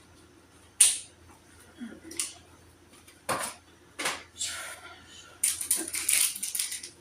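Small household items being handled and set down while sorting: a sharp knock about a second in, a few lighter clacks, then a dense burst of rattling and rustling near the end.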